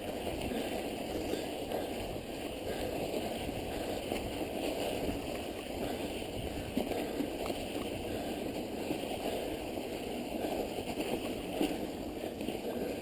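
Steady rushing noise of a mountain bike being ridden through snow, with no distinct knocks or clicks standing out.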